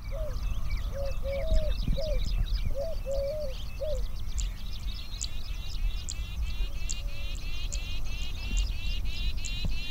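Outdoor ambience of songbirds calling: many short, high chirps throughout, and in the second half a fast, even trill of about four notes a second. A few short, low, arched call notes sound in the first four seconds over a steady low rumble.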